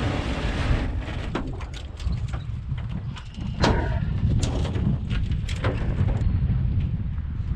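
Strong wind buffeting the microphone with a steady low rumble, broken by a few sharp knocks, the loudest a little past the middle.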